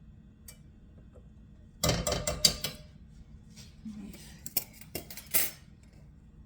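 Kitchen cookware and metal utensils clattering: a quick run of clinks and knocks about two seconds in, then a few scattered knocks and clinks.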